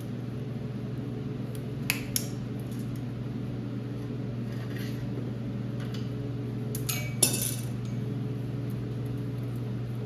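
Bicycle chain clinking and clicking in a few sharp metallic taps as the old chain is pulled off after its master link is opened, the loudest a little past the middle. A steady low hum sits underneath.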